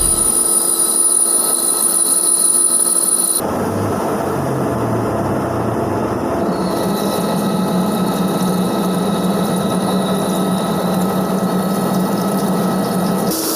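Metal lathe running: a steady mechanical hum with a faint whine from the machine. The sound changes abruptly about three seconds in, then runs on steadily.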